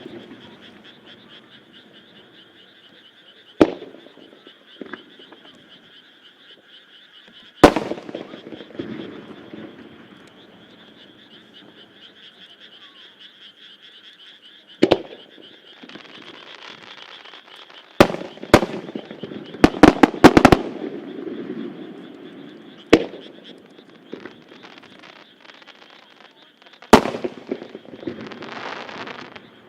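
Single aerial firework shells bursting with sharp bangs a few seconds apart, with a quick run of reports about twenty seconds in and crackling hiss after some bursts. Under them a steady chorus of frogs croaking.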